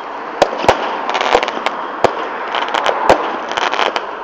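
Fireworks going off: about five sharp separate bangs, the loudest under a second in, with short runs of rapid crackling between them.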